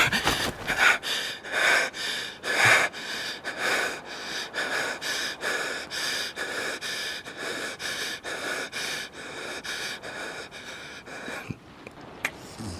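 A person breathing quickly and heavily in an even rhythm, about two breaths a second, stopping about a second before the end.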